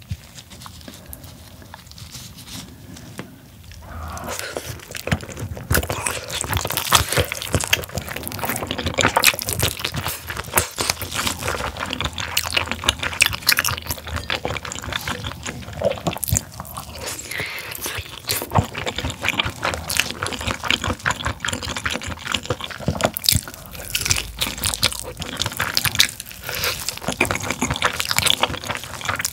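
Close-miked chewing and biting of chewy, gelatinous braised pig tail, heard as dense rapid mouth clicks and smacks. It is fainter for the first few seconds, then steady and louder.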